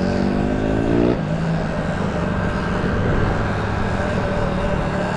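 Dirt bike engine revving up, its pitch rising, then breaking off suddenly about a second in. The engine then runs on under a steady rush of road and wind noise.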